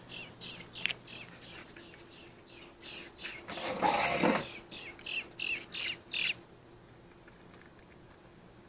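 A young bird's begging calls for food: short, high, squawking calls repeated about three times a second, growing louder with a longer, harsher call about four seconds in, then stopping suddenly a little after six seconds in.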